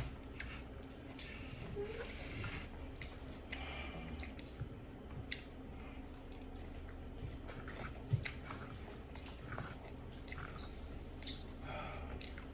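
A person chewing and biting food close to the microphone: a Chipotle bowl of rice, beans, queso and sour cream, with scattered small clicks and crunches.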